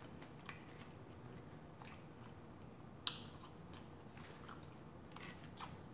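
Quiet chewing of french fries with faint, scattered mouth clicks and the soft handling of fries in their paper liner. There is one sharper click about three seconds in.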